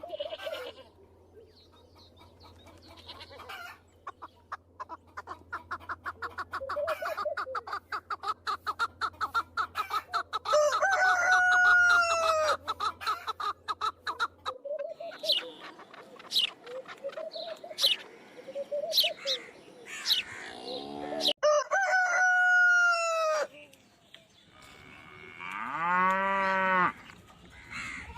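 Chickens clucking rapidly and roosters crowing several times in long calls that rise and fall, with a faint low hum that stops about halfway through.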